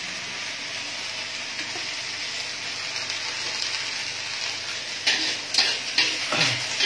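Chopped green beans sizzling steadily as they stir-fry in a wok. From about five seconds in, a spatula scrapes and knocks against the wok several times, louder than the sizzle.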